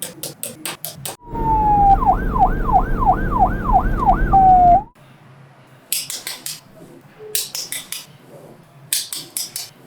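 A police siren sounds for about three and a half seconds over a rumble: a falling tone, then about seven quick rising-and-falling yelps, then a falling tone again. Before and after it, small magnetic balls click sharply as they snap together in quick bunches.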